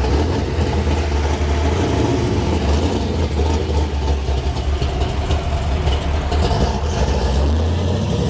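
Muscle car engine idling close by with a steady, deep low rumble.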